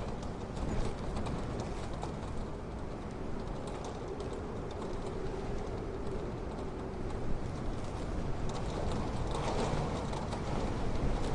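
Strong storm wind rumbling on the microphone, a steady low noise, with scattered faint clicks through it.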